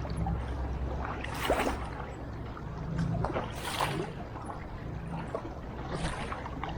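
Kayak paddle strokes splashing in the water: a splash every two seconds or so, three in all, over a steady low rumble.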